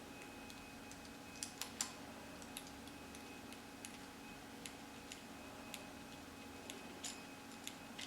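Faint, irregular small clicks of an Allen wrench working the little screws that fasten a bike light's metal front cap, about a dozen in all, over a steady low hum.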